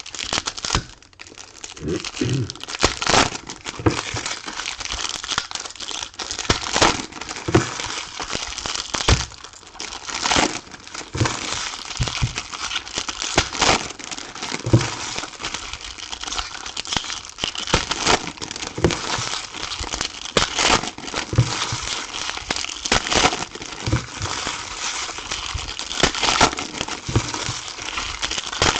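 Foil trading-card pack wrappers being torn open and crinkled, a continuous crackling with many sharp snaps and rustles throughout.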